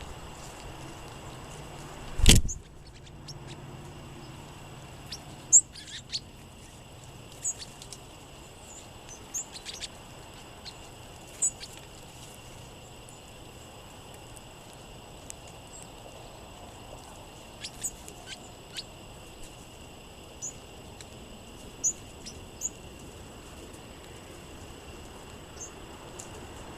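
Small songbirds giving short, high chip calls, scattered singly and in little clusters. A single sharp knock, the loudest sound, comes about two seconds in.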